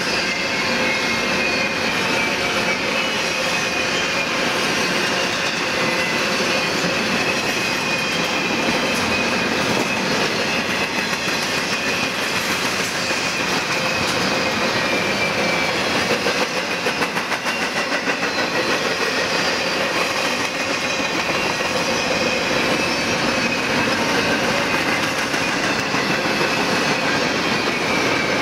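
Freight train cars rolling past on the rails: a continuous clatter of steel wheels with clicks over the rail joints and a thin, steady high whine from the wheels. A quick run of sharper clicks comes a little past halfway.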